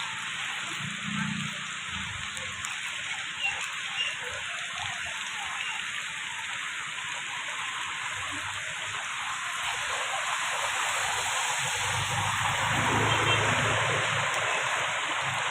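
A steady hiss of water, with a low rumble swelling near the end.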